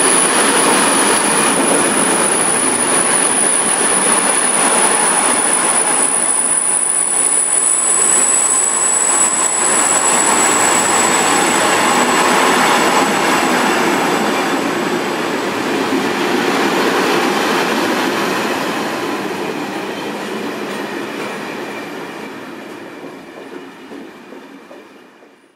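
Freight train of loaded timber wagons running past, a steady rumble of wheels on the rails with a thin high-pitched wheel squeal over the first half. The sound fades near the end as the last wagons go by.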